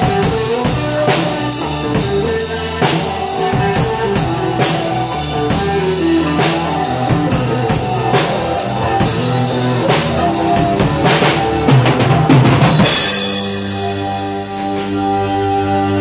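Drum kit played to a pop backing track, a steady beat of about two strokes a second with bass drum and snare. A quick fill builds into a crash about 13 seconds in, after which the drums stop and the backing track's held chords carry on.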